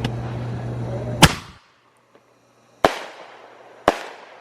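Consumer aerial fireworks going off: three sharp bangs, about a second and a half and then a second apart, the first the loudest, each trailing off in a short echoing tail.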